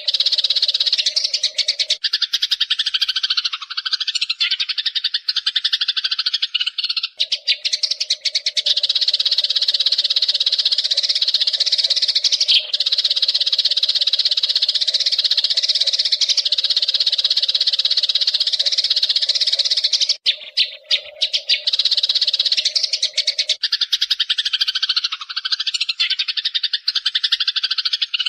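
Eurasian tree sparrows chattering and chirping in a rapid, continuous stream, looped as a birdsong-training recording, with a steady low drone beneath for most of it.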